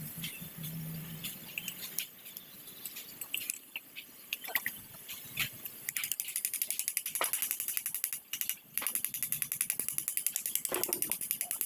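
Scattered metallic clicks and taps of hand tools, then from about halfway a ratchet wrench clicking fast and evenly, about ten clicks a second, with a short break partway through.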